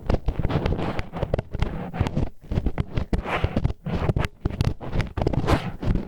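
Disposable wooden chopsticks scraping and rubbing inside an ASMR ear microphone, an ear-cleaning sound: irregular, close-up scratching strokes and clicks with a low, rumbling thud from the mic.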